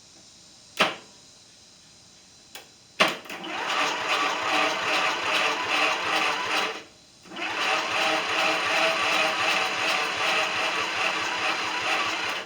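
Craftsman LTX 1000 lawn tractor's starter motor cranking the 20-horsepower engine in two long runs with a short pause between, after a sharp click about a second in. The engine turns over without catching, which the owner then suspects is for lack of spark.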